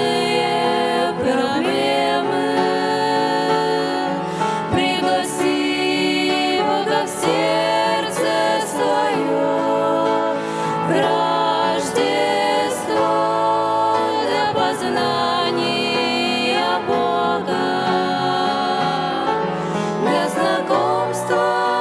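Christian gospel-style song: voices singing over instrumental accompaniment, with no clear words.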